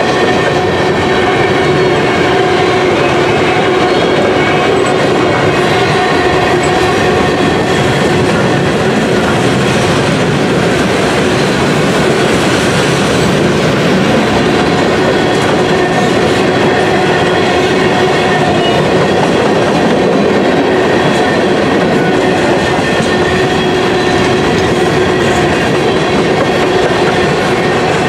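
Freight train of covered hopper cars rolling past close by: the wheels running on the rails make a loud, steady rumble that continues without a break as car after car goes by.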